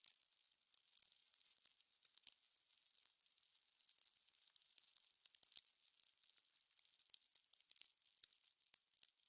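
Wood fire crackling: irregular sharp pops and snaps, several a second, over a soft hiss.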